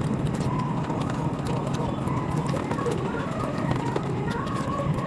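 Mukbang eating sounds sped up five times: chewing and mouth noises running together as a fast, continuous patter of many small clicks.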